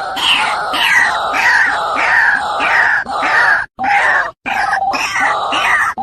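White-breasted waterhen calls from a lure recording: a string of harsh, falling notes about twice a second, cut off abruptly twice around the middle where the edited mix is spliced.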